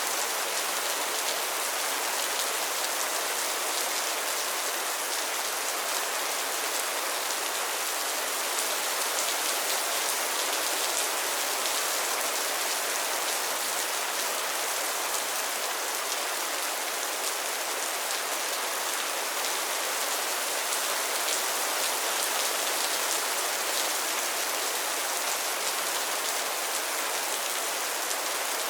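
Steady rain falling on still pond water and floating lily pads: a dense, even hiss of many small drop impacts, strongest in the high end, with no let-up.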